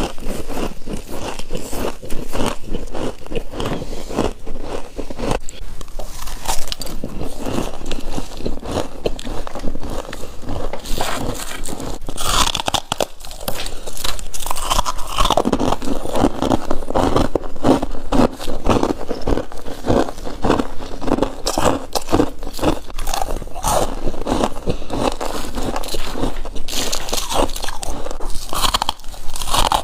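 A person biting into and chewing mouthfuls of all-white freezer frost: dense, rapid, crunchy crackling, with a brief lull about 13 seconds in.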